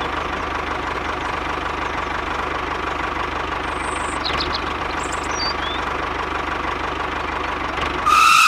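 Small engine of a DIY miniature tractor idling steadily with a fast, even knock, just after being started. Shortly before the end there is a brief louder burst with a rising whine, then the sound cuts off suddenly.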